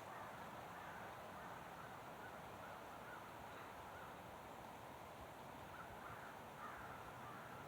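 Faint bird calls, a few short calls scattered through, over a steady low background hiss.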